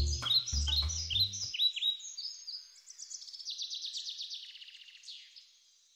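Background music with a deep bass stops about a second and a half in, leaving birds chirping: quick repeated high notes and trills that fade out near the end.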